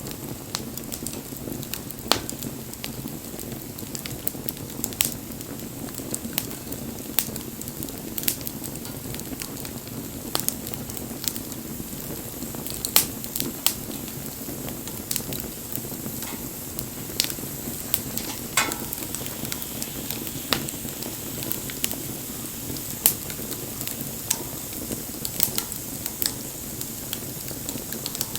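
Wood bonfire burning: a steady low rush of flame with frequent, irregular sharp crackles and pops from the burning wood.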